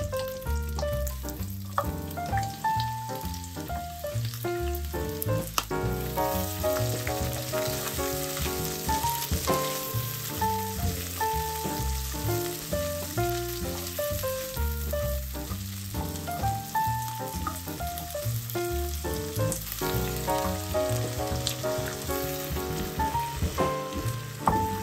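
Vienna sausages, rice cake pieces, green pepper and onion sizzling in oil in a nonstick frying pan, turned now and then with a spatula. Background music with a steady bass beat plays over the sizzling.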